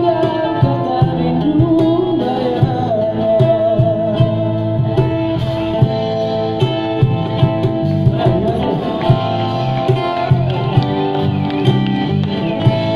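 Live street-busking music: a man singing long, wavering notes over guitar accompaniment with a steady beat.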